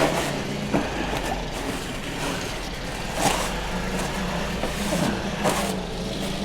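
An engine running steadily with a low hum, with a few brief sounds over it.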